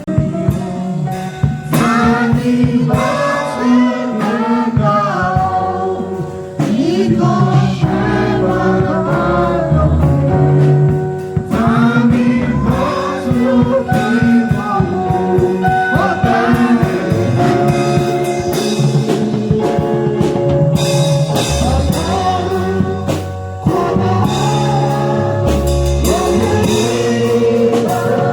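Gospel music: singing, with some choir-like tags, over an instrumental backing with a steady bass line.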